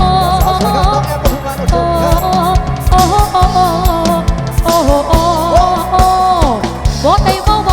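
Live Thai band music through a PA: a drum kit keeping a steady beat under a lead melody that wavers and bends in pitch, an instrumental passage between sung verses.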